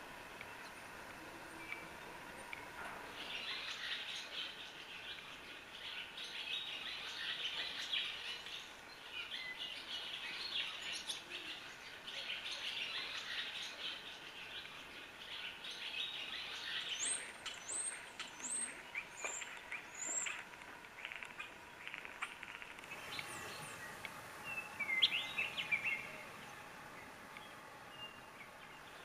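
Small birds chirping and twittering in a dense, busy run, followed by a handful of short, high, rising notes about two-thirds of the way in and a last brief burst of chirps near the end.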